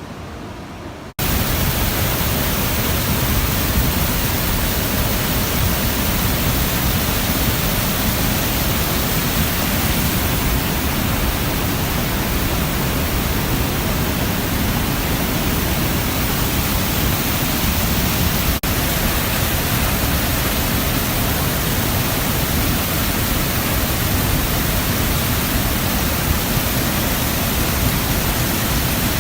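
Steady, loud rush of floodwater, an even noise with a deep low end and no distinct events. It starts abruptly about a second in and drops out for a split second about two-thirds of the way through.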